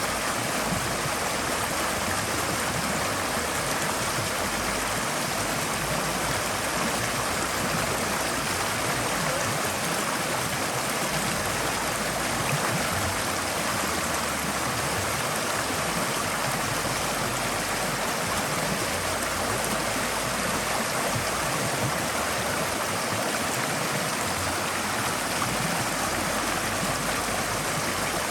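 Forest stream flowing steadily over stones, a continuous even rush of water with light gurgling.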